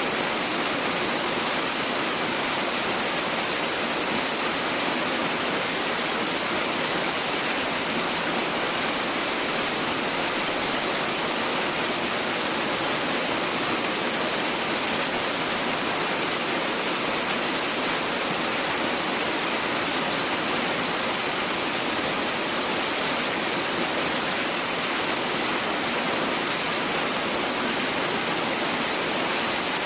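Tiered mountain waterfall rushing steadily, an even, unbroken roar of falling water.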